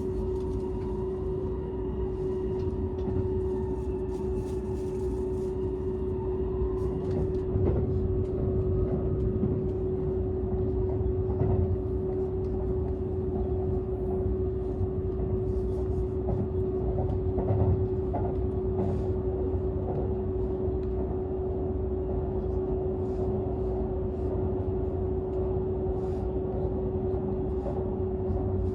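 Cabin noise inside a Seibu 001 series Laview limited-express car running at speed: a steady low rumble with a constant hum, and scattered clicks and knocks from the wheels on the track. Faint whining tones die away in the first several seconds.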